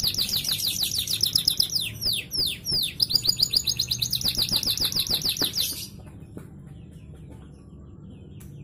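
Canary singing a fast rolling trill of high down-slurred notes, about nine a second, broken by a few slower swooping notes in the middle; the song stops a little over halfway through, leaving a faint low hum.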